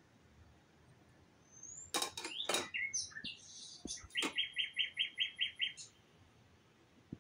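Small bird calling: a cluster of sharp, high calls about two seconds in, then a quick run of about eight evenly spaced chirps.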